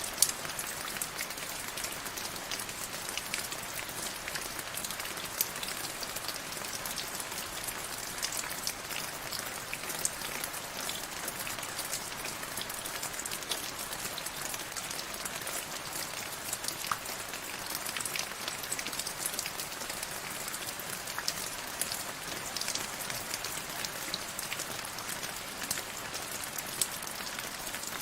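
Steady rain falling, with many sharp individual drops ticking among the even patter.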